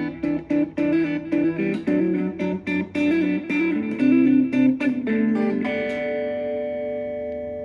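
Instrumental guitar music: a run of quickly picked notes, then, about five seconds in, a chord held and left to ring, slowly fading.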